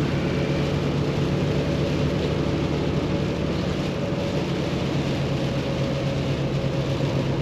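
Paccar MX13 diesel engine of a Kenworth T680 semi truck running steadily, a low even drone with road and cab noise.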